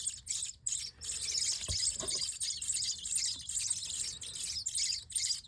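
Baby birds giving rapid, high-pitched begging chirps while being hand-fed mealworms, with one soft knock about one and a half seconds in.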